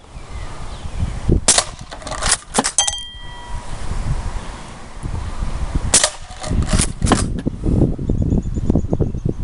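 Umarex Legends Cowboy lever-action CO2 BB rifle being fired and cycled: sharp shots and lever clacks come in two quick runs, one from about one and a half to three seconds in and another around six to seven seconds. A short metallic ring sounds about three seconds in.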